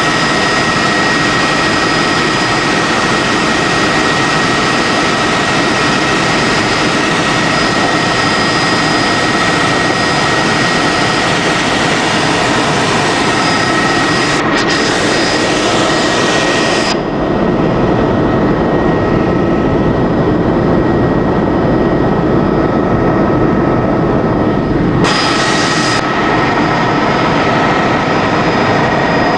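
Helicopter in flight: a steady turbine whine over a loud rotor and engine noise. About seventeen seconds in the higher part of the sound dulls for roughly eight seconds, then returns.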